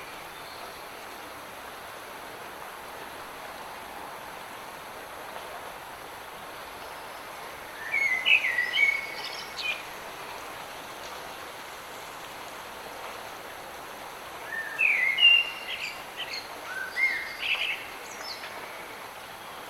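Steady hiss of light rain, with a songbird singing two short phrases of quick chirping notes, about eight seconds in and again from about fifteen seconds in.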